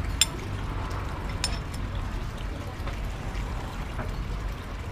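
Eatery background noise: a steady low rumble, with three sharp clinks, the first just after the start and two more about a second and a half in.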